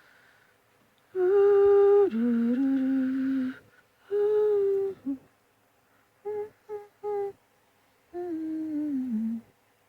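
A person humming a short tune in phrases of held notes, with three quick short notes partway through and a falling phrase near the end.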